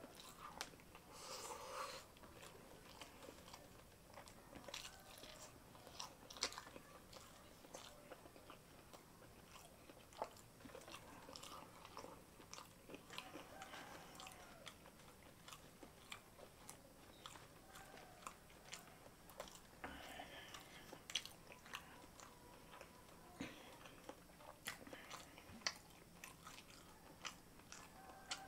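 Faint close-up chewing of rice and jengkol (dogfruit) stew, with many small wet clicks and smacks of the mouth.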